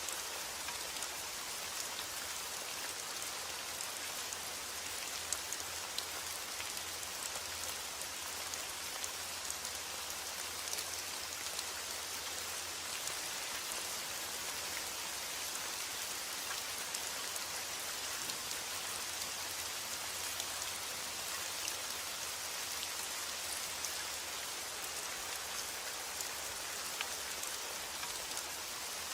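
Steady rain falling, with many small drops ticking on a surface over an even hiss.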